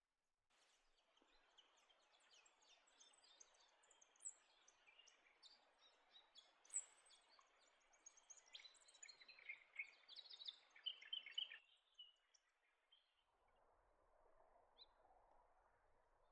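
Superb fairy-wren song: faint, rapid high-pitched chirps and trills over a light background hiss, ending abruptly about eleven seconds in, after which only faint ambient hiss remains.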